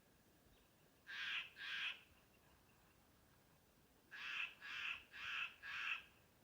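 A crow cawing: two caws about a second in, then a run of four evenly spaced caws about two seconds later.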